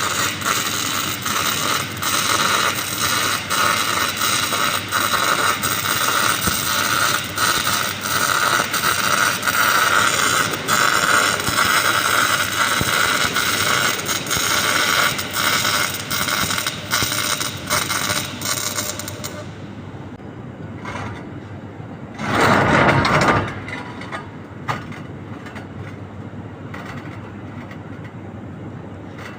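Electric arc welding: a steady, dense crackle and sputter that runs for most of the stretch, then stops. After it, a quieter background is broken by one loud burst of noise lasting about a second.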